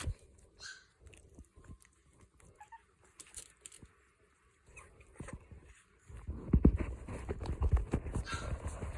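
Boston terrier puppies giving a few short squeaks among soft shuffling. About six seconds in, loud rustling and bumping sets in close by.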